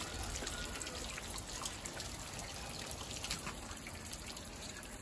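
Water trickling and dripping steadily as it is poured over pet cockatiels to give them a shower, with a few faint drips.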